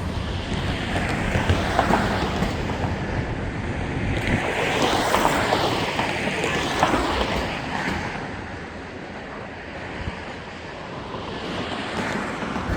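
CSX intermodal freight train rolling past, a steady rush of wheel and rail noise that swells in the middle and eases a little toward the end.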